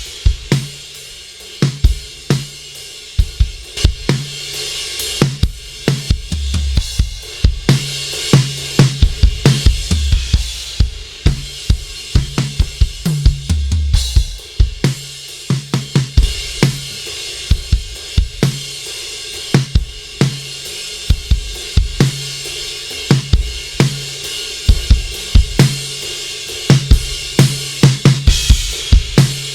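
Recorded drum kit playing a steady groove of kick, snare and hi-hat with cymbals, heard as a mix-processing demo through a diode-bridge bus compressor.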